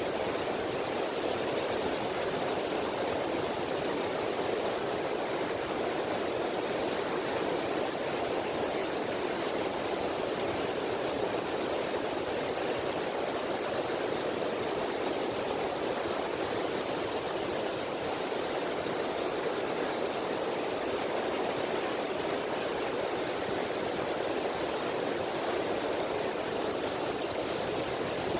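Gentle sea ripples washing on a beach: a steady, even wash of water with no distinct surges or breaks.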